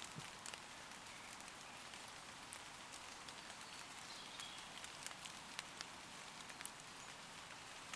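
Gentle steady rain falling on leaves, an even hiss with many single drops ticking sharply close by. A bird gives one short, faint call about four seconds in.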